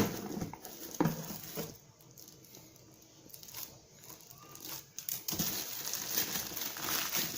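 A few sharp snips as scissors cut into a parcel's packaging, then the packaging crinkling steadily as it is pulled open, starting about five seconds in.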